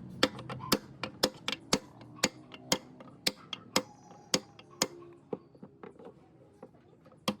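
Sharp clicking taps, roughly two a second, with fainter taps in between, growing quieter toward the end.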